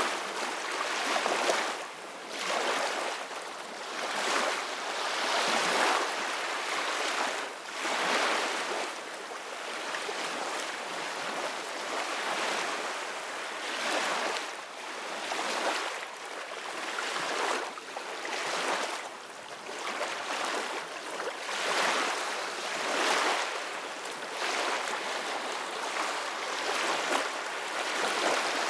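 Ocean waves washing on a shore: a steady surf hiss that swells and ebbs every second or two.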